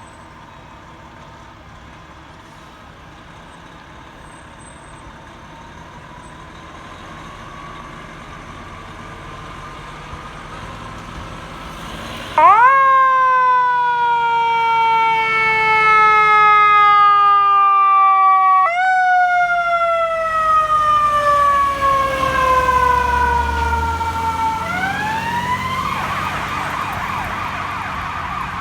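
Fire engine siren. It starts as a faint tone rising slowly, then comes on loud about twelve seconds in, jumping up in pitch and gliding slowly down. It does this again about six seconds later, then changes to a fast warble near the end. The siren's yelp is broken.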